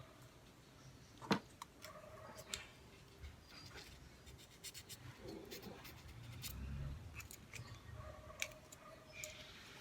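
Faint scraping and scattered light clicks from cleaning the starter motor's carbon brushes and handling its small metal parts by hand, with one sharper click about a second in.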